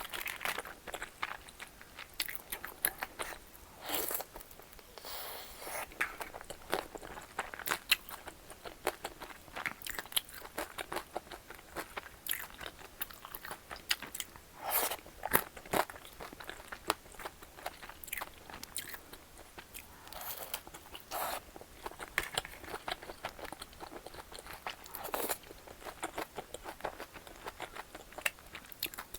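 Close-miked eating sounds: a person chewing and biting food, with many short crunchy clicks throughout.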